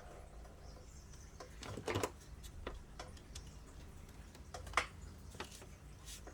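A few scattered light clicks and taps from handling a mini PC and pressing its power button, the loudest about two seconds in and another near five seconds, over a faint low hum.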